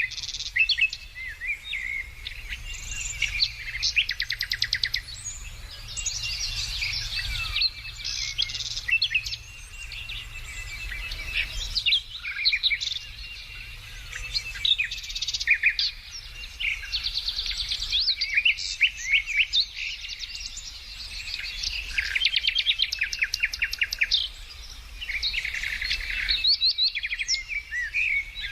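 Several birds singing and calling together: a continuous mix of short chirps, whistled notes and rapid trills.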